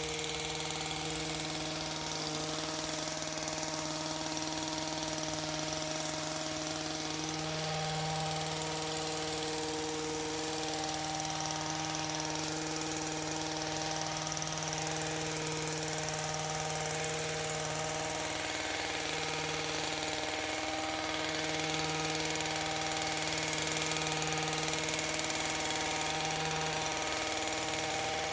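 Power hedge trimmer running steadily at high speed, its motor holding an even buzzing pitch with brief small dips.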